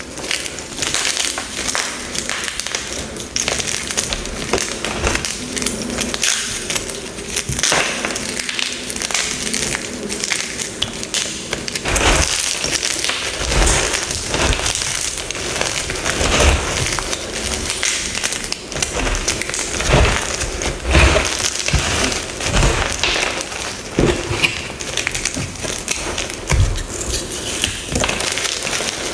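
Deep-dyed gym chalk blocks and halves being crushed, a continuous crisp crunching and crumbling crackle. From about halfway through the crunches come heavier, with dull thuds among them.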